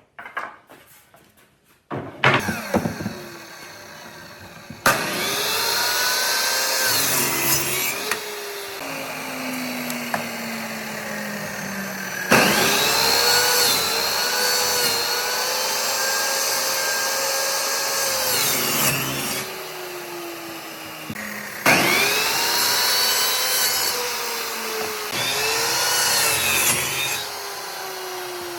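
Handheld electric power tool working wood: the motor runs three times, its whine sagging in pitch as it bites into the wood, then winding down with a falling whine between runs. A few knocks come before the first run.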